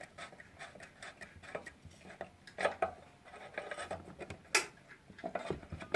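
Small metal parts of a mini bandsaw clicking, knocking and scraping as they are fitted and tightened by hand, in irregular taps with one sharp click about four and a half seconds in.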